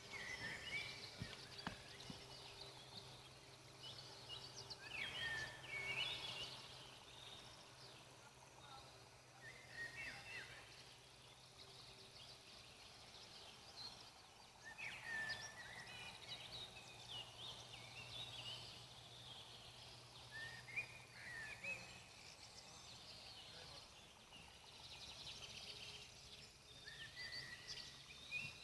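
Songbirds chirping in short, quick phrases that come every few seconds, over a faint steady low hum.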